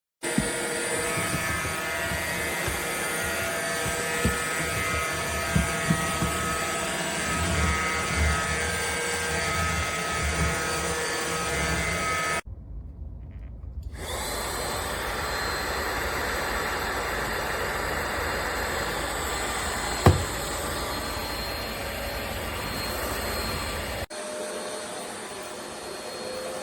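Cordless stick vacuum cleaner running: a steady motor whine over rushing air, with a few knocks in the first half. The sound drops away briefly about halfway through, then runs steady again.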